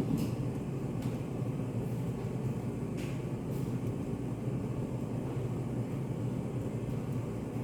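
Study-cafe room ambience: a steady low hum with a few faint clicks, one about three seconds in.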